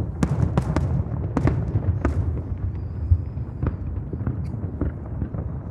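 Fireworks display: aerial shells bursting in quick succession, sharp cracks over a continuous low rumble of booms.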